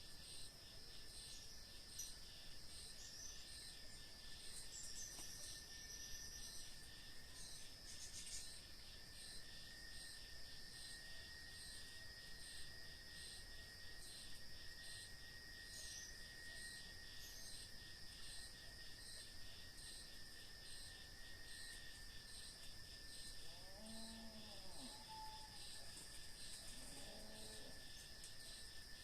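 Crickets and other night insects chirping steadily at dusk on a farm: a high chirp pulsing about one and a half times a second over a continuous high trill and a thin steady whine. Near the end come a few brief, low, arching calls from some other animal.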